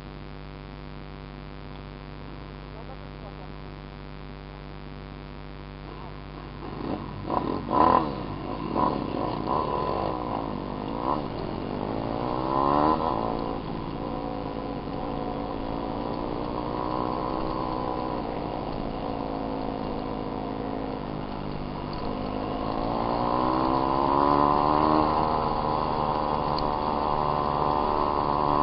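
Small dirt bike engine running: a steady idle at first, then a few sharp throttle blips about seven seconds in, followed by revs rising and falling, and a longer climb in revs about 22 seconds in.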